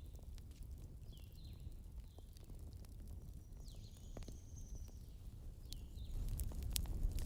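Campfire crackling in sharp scattered snaps under a low steady rumble, with small birds chirping: short falling notes about once a second, and one longer high whistle about four seconds in. The snaps and the rumble grow louder near the end.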